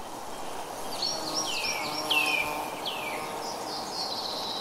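Birds calling: a run of high notes that each sweep steeply downward, starting about a second in, over a steady outdoor background hiss.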